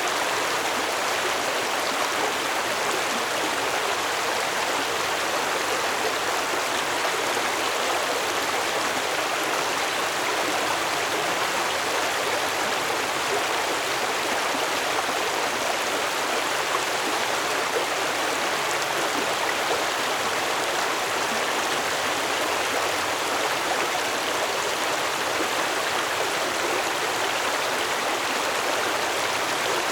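Stream water flowing and babbling steadily, a constant rushing with no change.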